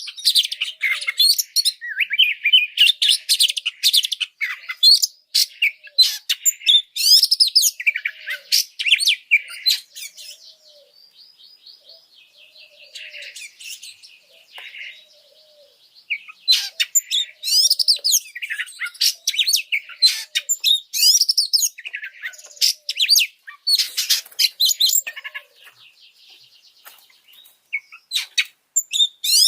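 Oriental magpie-robin singing a fast, varied song of rapid whistles, trills and harsh notes, in the agitated, high-energy mood bird keepers call 'emosi'. The song drops to a softer passage about ten seconds in, then comes back loud around sixteen seconds.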